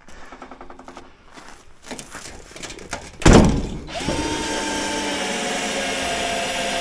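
A loud knock about three seconds in, then a power drill runs steadily for about three seconds, its whine sinking slightly in pitch as it drives a screw into a roofing sheet.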